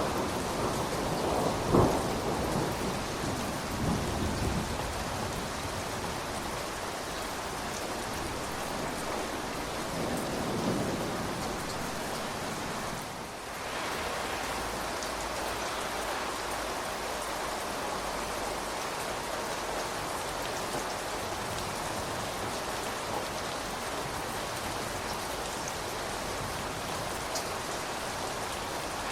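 Steady rain falling, with a rumble of thunder dying away over the first few seconds and another weaker rumble about ten seconds in.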